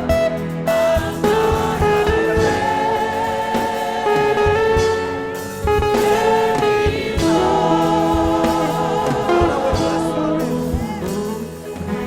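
Gospel singing with a choir and instrumental accompaniment, voices holding long notes.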